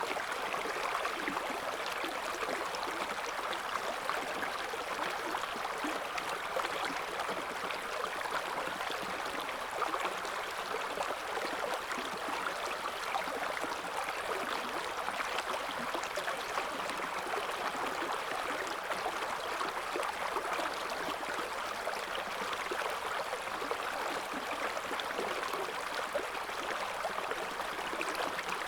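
River water flowing over stones: a steady babble and gurgle of the current.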